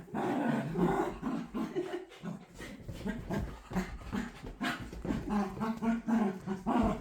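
Excited dog whining and whimpering in greeting, overjoyed at its owner's return, with short scuffling clicks in between.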